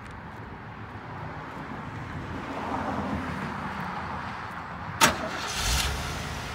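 Chevrolet Caprice's engine starting: a sharp click about five seconds in, a short rushing burst, then a low steady idle rumble.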